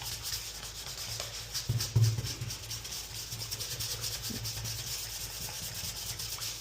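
Hand sanding of cured Bondo body filler on a porcelain tub with a fine 220-grit sanding sponge: quick, light back-and-forth rubbing strokes.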